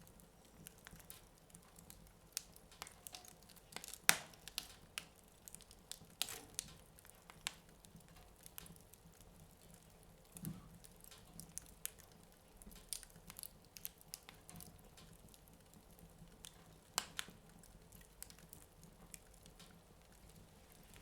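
Wood fire in a fireplace crackling faintly, with many small irregular pops and a couple of sharper snaps, one about four seconds in and one near seventeen seconds.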